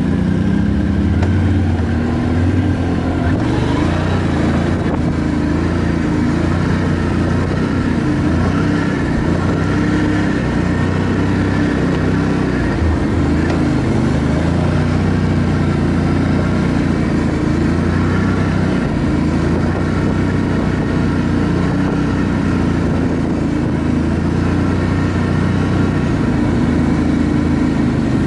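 An ATV engine running steadily under way, its pitch shifting a little with the throttle.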